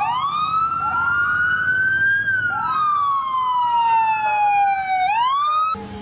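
Siren wailing: one slow rise in pitch, a longer fall, then a quick rise again before it cuts off suddenly near the end, with a few brief rising tones beneath it.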